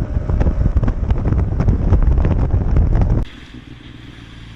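Heavy wind buffeting the microphone, loud and gusty, cutting off abruptly about three seconds in to a faint steady low hum.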